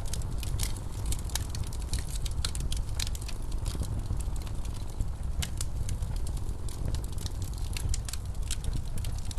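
Wood fire crackling with many irregular sharp pops, over a steady low rumble of blizzard wind.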